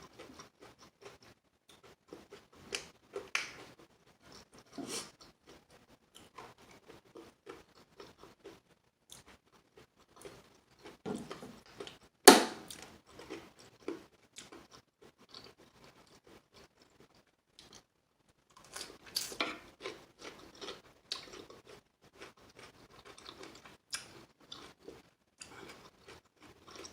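Close-miked chewing and crunching of crispy fried chicken wings: irregular crackly bites and chews, with one sharp, much louder crunch near the middle.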